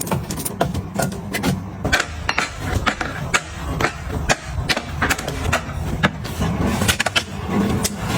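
Objects being handled and set down: an irregular run of sharp clicks and knocks, several a second, over a low background rumble.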